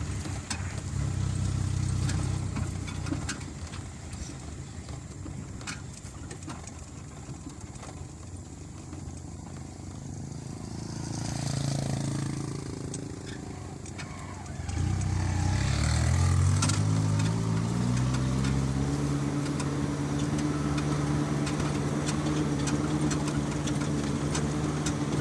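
A vehicle engine running while driving, quieter through the middle. About fifteen seconds in it revs up, rising in pitch, then holds steady at higher revs.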